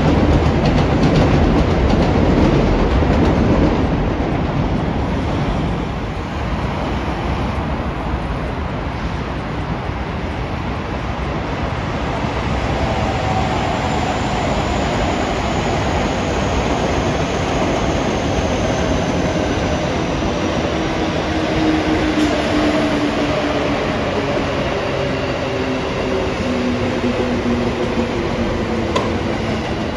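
A train running past on the rails, its rumble loudest in the first few seconds. From about twelve seconds in, a whine from the train slides slowly down in pitch.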